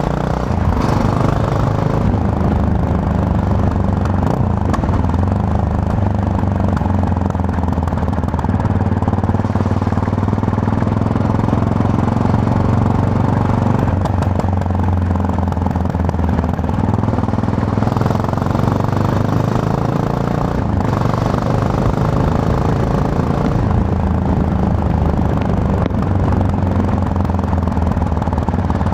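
Yamaha MT-03 motorcycle engine running under way, heard from the rider's position. The engine note rises and falls with the throttle, with a few brief changes in pitch as the rider works through the gears.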